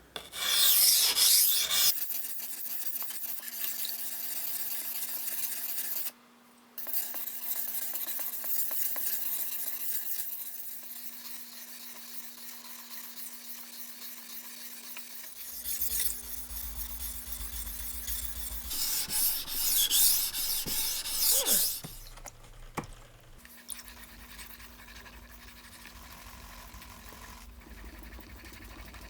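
Stainless-steel knife blade being stroked across a wet 800-grit whetstone: a continuous gritty scraping rasp, with a brief pause about six seconds in and louder strokes in the last third.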